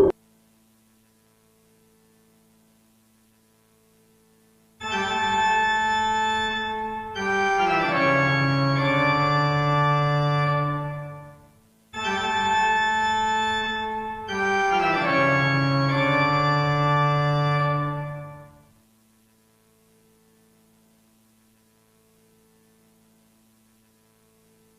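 An organ plays a short chord phrase twice in a row, starting about five seconds in. Each pass is a held chord followed by shifting chords, about seven seconds long, with a brief break between the two.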